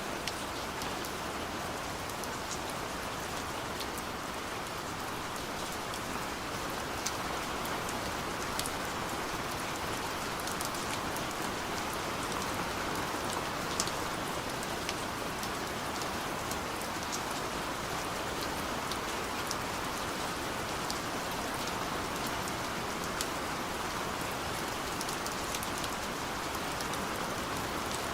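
Steady rain falling, with scattered louder drops ticking through it.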